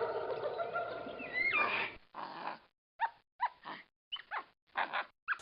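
A steady, pitched jungle-style ambience, then from about two seconds in a string of short, whining animal-like calls with sliding pitch, each cut off into dead silence.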